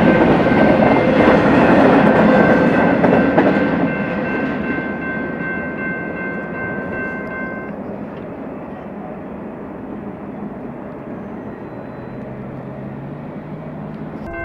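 Freight train's rail cars rolling past on the track. The rumble is loud for the first few seconds, then fades as the train moves away. A steady high-pitched ringing tone sounds over it and stops about halfway through.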